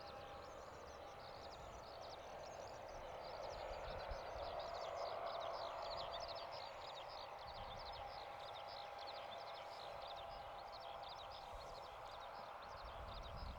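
Many birds chirping quickly and continuously over the faint, steady hum of distant jet engines, a thin held whine running under it.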